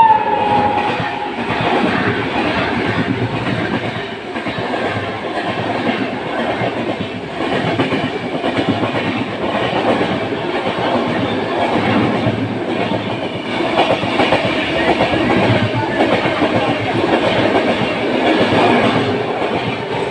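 Indian Railways train running past with its wheels clattering over the rail joints in a fast, continuous rhythm. The tail of a horn blast fades out in the first second.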